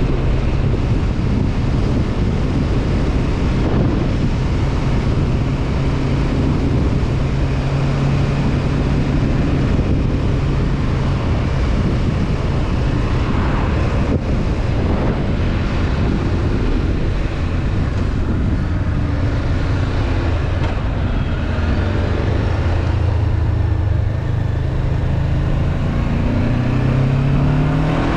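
Honda CB500F parallel-twin engine running at a steady cruise, with wind rushing over the microphone. The engine note drops somewhat in the second half, then starts to rise near the end as the bike accelerates.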